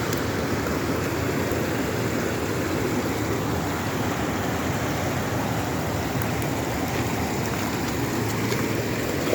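Steady rush of water flowing over rocks at a waterfall and its stream crossing.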